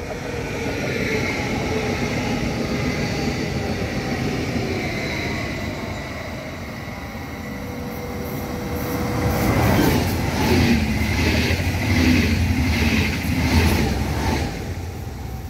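Train passing close by: a steady rumble with a faint high whine, then about two-thirds of the way in a louder, regular clatter of wheels over rail joints, about two beats a second.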